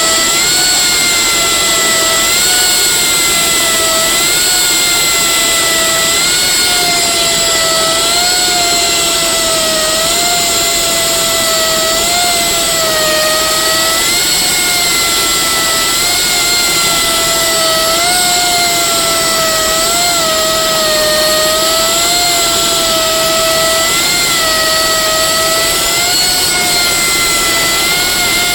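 Loud, steady machinery whine made of several high tones that waver slightly every couple of seconds, over a constant rushing noise.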